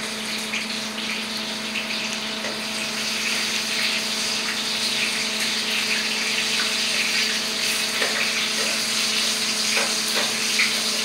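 Food frying in a pan on a gas burner: a steady sizzle, with short clicks and scrapes of a metal utensil stirring it every so often.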